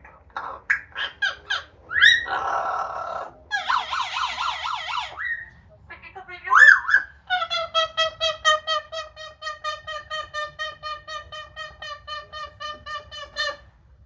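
Amazon parrot calling: a few short squawks, a harsh buzzy call and a warbling call, then a rising squawk and a long run of rapid, evenly spaced notes on one pitch, about five a second, lasting some six seconds.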